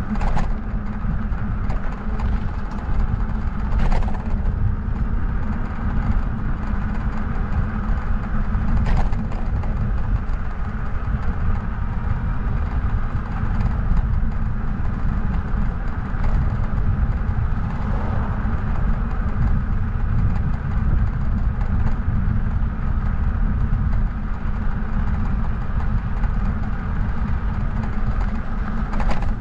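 Steady rumble of a bike ride: wind buffeting the microphone and rolling noise, with a couple of faint clicks.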